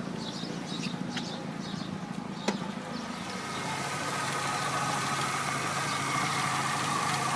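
Chevrolet Aveo petrol engine idling steadily. It has just been started after its repaired ECU restored fuel pump and spark, with two faint clicks early and a slight rise in level a few seconds in.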